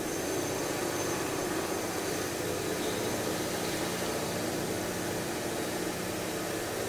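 Steady mechanical drone of construction machinery running, an even rumbling noise with a low hum and no knocks or breaks.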